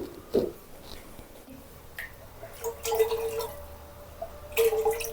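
Liquid dripping and trickling into a bowl, with a few light knocks, as bread dough is started.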